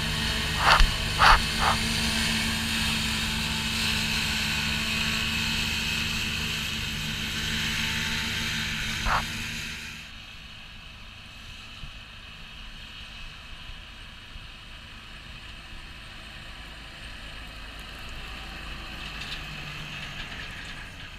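New Holland TX5090 combine harvester running steadily at work, with a few sharp knocks in the first two seconds and another about nine seconds in. About ten seconds in, the sound drops suddenly to a much quieter, duller running.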